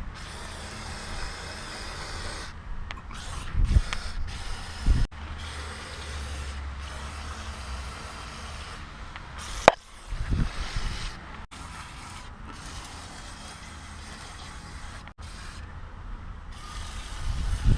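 Hands-on car repair work: a few scattered metal knocks and clanks, one with a short metallic ring, over a low steady hiss and rumble.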